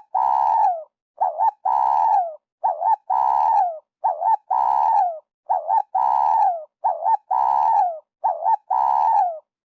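Spotted dove cooing over and over, about seven phrases, each a quick double note followed by a longer coo that drops in pitch at its end, repeated about once every second and a half.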